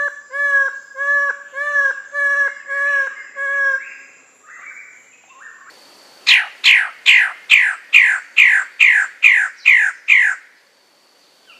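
Bird calls: first a run of repeated short, arched whistled notes at about two a second, then, after a quieter gap, a louder series of about eleven sharply falling calls at about three a second.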